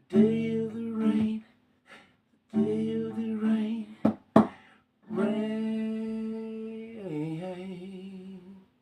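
A man singing the closing phrases of a folk song, wordless or too drawn out for words to be caught, ending on a long held note that wavers near the end. Two sharp strikes come about four seconds in.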